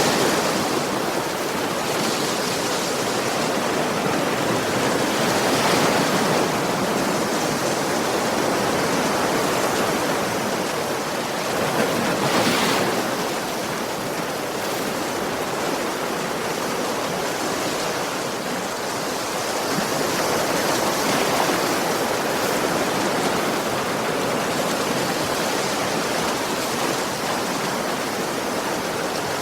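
Ocean waves breaking on a shore: a steady wash of surf that swells louder every six to nine seconds as a wave breaks.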